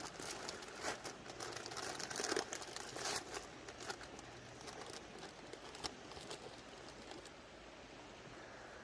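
A plastic bag of potato chips being torn open and crinkled, with sharp crackling for about the first four seconds. It then settles to a faint steady hiss.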